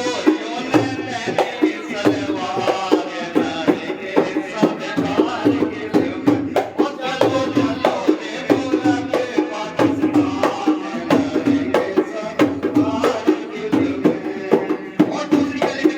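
Rasiya folk song: a voice sings a melismatic line over a steady, brisk dhol rhythm.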